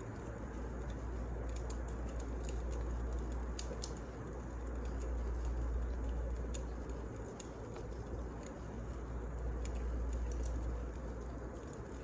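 Wood fire burning in a fireplace: a steady low rumble and hiss with scattered small sharp crackles and pops.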